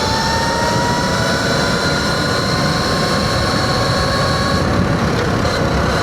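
Sur-Ron Light Bee electric dirt bike's motor whining while riding, the pitch rising a little and then holding steady before the whine drops away about five seconds in. Heavy wind rumble on the microphone runs underneath.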